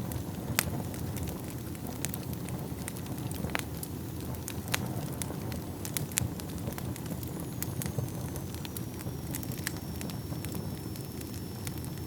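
Wood fire burning in a fireplace: a steady low rumble with irregular sharp crackles and pops, the loudest about half a second in.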